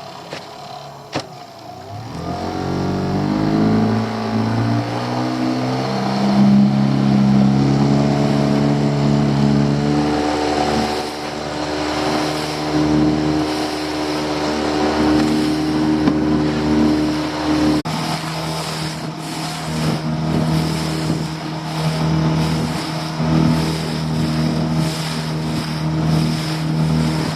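Boat engine throttling up from idle about two seconds in, rising in pitch, then running steadily at speed with water and wind noise around it.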